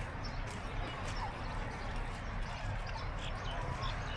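Footsteps tapping on a hard, wet street, a few steps a second, over a steady low rumble.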